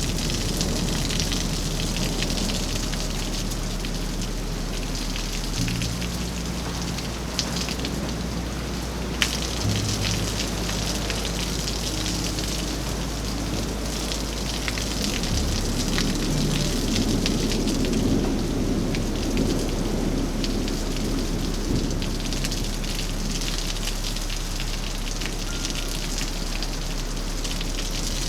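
Heavy rain falling steadily, with dense pattering of drops on hard surfaces. A low rumble of distant thunder swells and fades a little past the middle, over a low steady hum that changes pitch a few times.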